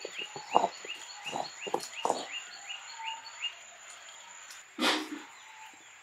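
Birds calling outdoors: one bird repeats a short rising chirp about four times a second, stopping about three and a half seconds in, while lower calls from another bird sound in the first two seconds. A short, loud burst of noise comes about five seconds in.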